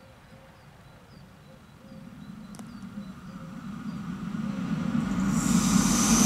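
An approaching train growing steadily louder: a low rumble builds from about two seconds in, and high rail hiss joins near the end. Under it, the crossing's electronic ZV-02 warning bell dings faintly at a slow, even pace.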